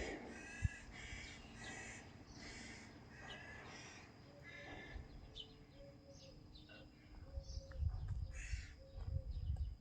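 Crows cawing: a run of harsh, rasping caws about two or three a second, thinning out after about five seconds. A lower repeated call joins later, and a low rumble comes near the end.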